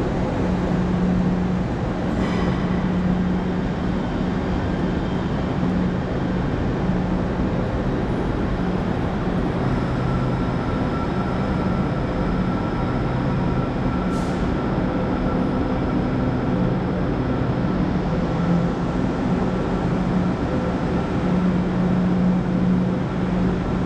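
Great Western Railway passenger train moving slowly along a station platform, with a steady low drone and hum of its running gear and engines. A short, high hiss comes about 14 seconds in.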